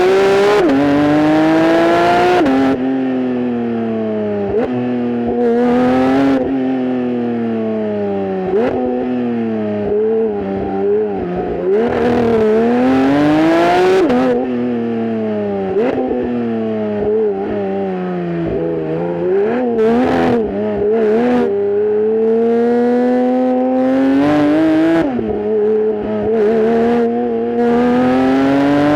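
Porsche 992.1 GT3's 4.0-litre flat-six engine and exhaust under hard driving. The revs climb repeatedly, fall away and jump suddenly in pitch at the gear changes, over and over through the run.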